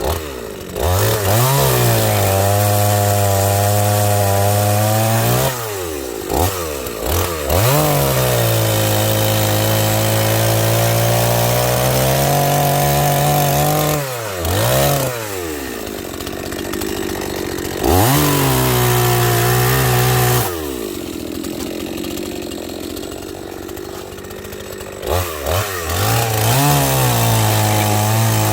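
Two-stroke chainsaw cutting firewood logs, revving hard during each cut and dropping back to idle between cuts, several times over. There is a longer idle stretch about two thirds of the way through.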